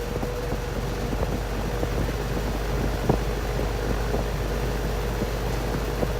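Electric fan running steadily: a low motor hum under the rush of air from the blades, with one sharp tick about three seconds in.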